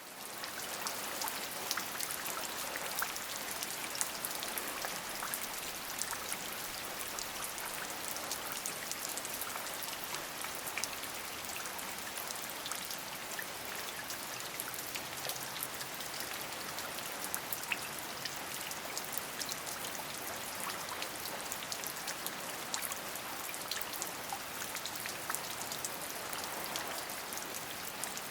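Steady rain falling, with many close, crisp drop impacts over an even hiss.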